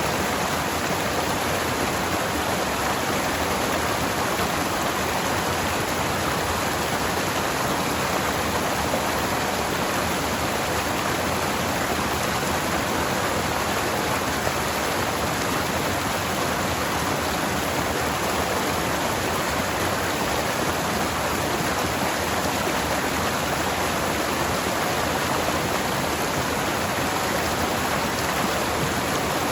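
Forest stream flowing over rocks, a steady rushing of water.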